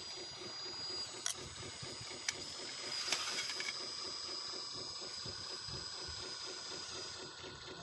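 Radio-controlled construction models running: a steady high electric whine over a rapid, even low pulsing, with a few sharp clicks in the first three seconds. The whine stops near the end.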